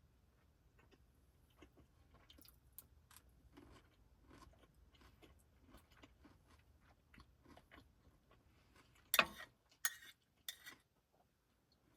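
A person eating close to the microphone: soft chewing and crunching, then three louder crisp crunches near the end.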